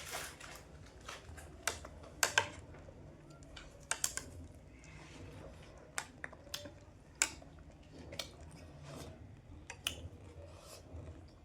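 Eating jhalmuri, a spiced puffed-rice snack, over a low room hum: a dozen or so sharp clicks and crunches at irregular intervals.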